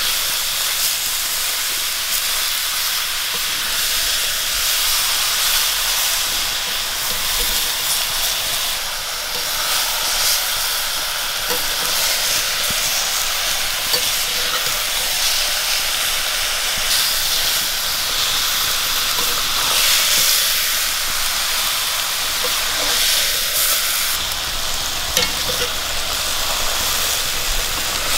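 Chicken pieces sizzling steadily in oil and masala in an iron kadai while a spoon stirs them, with a few faint clicks.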